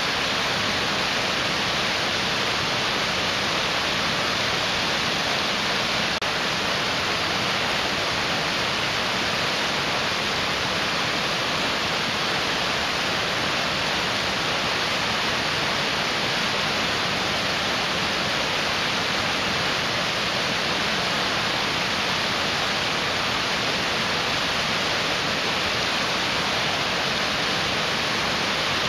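Mountain stream rushing over rocks: a steady, even water noise with no breaks or single splashes.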